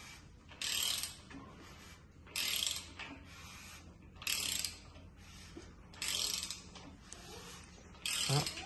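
Ratchet wrench clicking in five short strokes, one about every two seconds.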